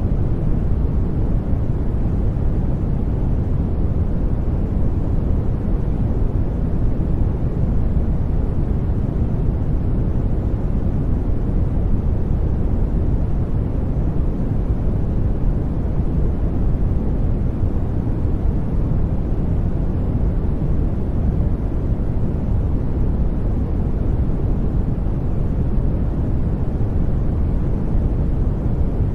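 Steady, unchanging brown noise: a deep, even rumble of synthetic noise, strongest in the lows and fading toward the highs.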